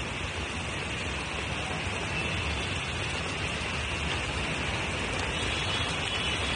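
Heavy monsoon rain pouring down, a steady even hiss with no break.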